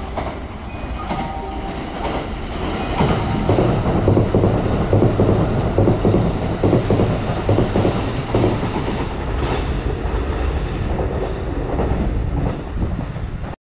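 Kintetsu 80000 series Hinotori electric limited express passing through the station at speed without stopping. A rumble builds as it approaches, then the cars rush by with rapid wheel clatter over the rail joints. The sound eases slightly near the end and then cuts off suddenly.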